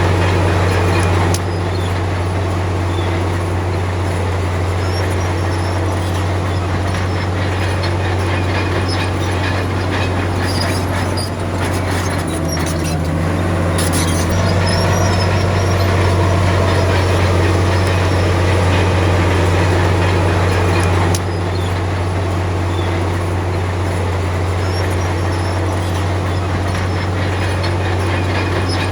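Komatsu D53P bulldozer's diesel engine running steadily under load, with its steel tracks clattering and squealing as it pushes soil and stone. The engine note shifts a few times, about a second in, near the middle and about two-thirds of the way through.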